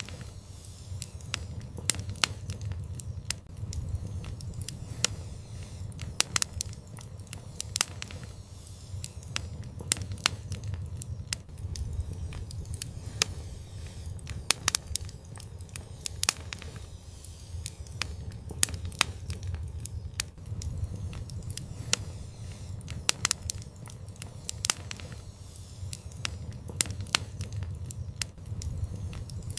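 Wood fire burning in an outdoor fireplace, crackling and popping with irregular sharp snaps over a steady low rumble of the flames.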